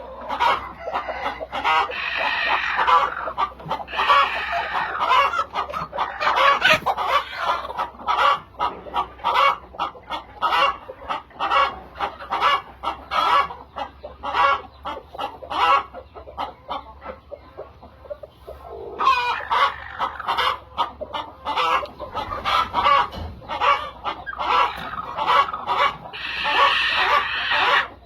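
A flock of chickens clucking, many short calls overlapping in quick succession, with louder bursts of calling about two-thirds of the way through and near the end.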